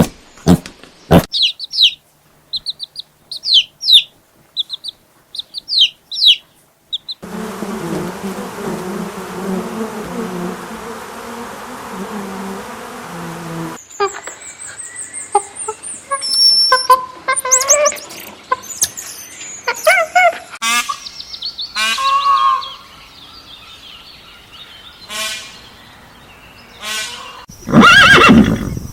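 A run of different animal calls one after another: short high chirps and clicks, then varied bird-like calls. Near the end comes a loud horse neigh, the loudest sound in the stretch.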